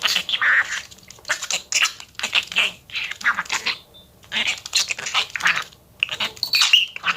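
Budgerigar chattering: quick runs of warbles and clicks broken by short pauses.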